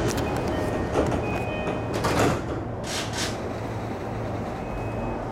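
E233-series electric train running, heard from inside the car: a steady low rumble with a few knocks, two short hissing bursts about three seconds in, and brief thin steady tones.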